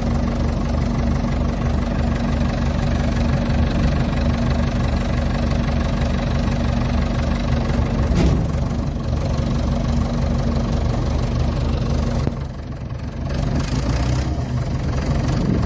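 Ford 755 backhoe's engine idling steadily, easing off briefly for about a second near the end.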